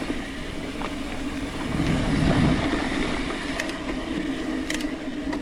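Mountain bike rolling along a dirt trail: a steady rumble of tyres on the ground with wind on the microphone, and a few light clicks from the bike.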